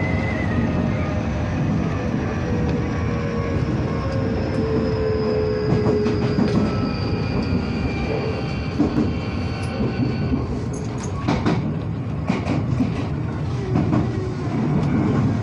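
Shizuoka Railway electric train running, heard from inside behind the cab: a steady rumble with a whine that slowly falls in pitch, as the train eases off. From about ten seconds in, the wheels clack over rail joints and points.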